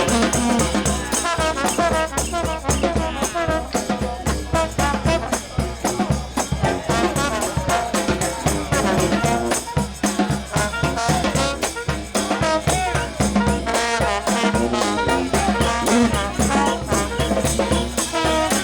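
New Orleans brass band playing second-line music: trumpets and trombones over a steady, driving drum beat, with a tambourine or similar shaker in the mix.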